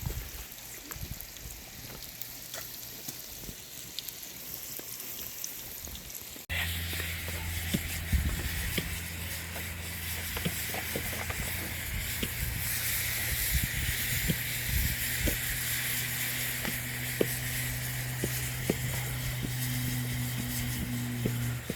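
Food frying in a pan, sizzling steadily, with scattered light clicks. About six and a half seconds in, the sound cuts and comes back louder, now with a steady low hum underneath.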